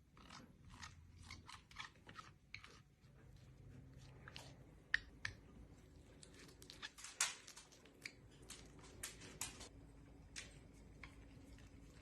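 Faint, irregular crisp clicks and crunches, a few a second, with two louder snaps about five and seven seconds in.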